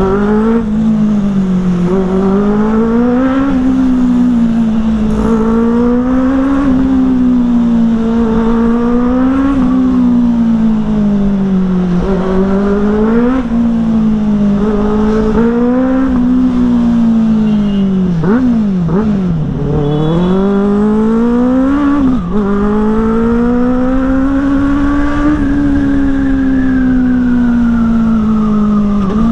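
Benelli motorcycle engine through a loud modified exhaust while riding, its note rising and falling every couple of seconds as the throttle is worked and gears change. Just past the middle it drops low with a few quick blips, then holds a long steady pull before easing off near the end, with wind rumble on the microphone.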